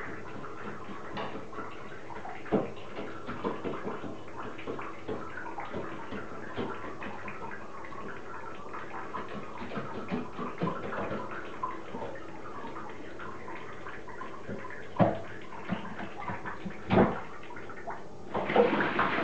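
A crow bathing, splashing and fluttering in water with a steady run of small splashes and several louder splashes near the end.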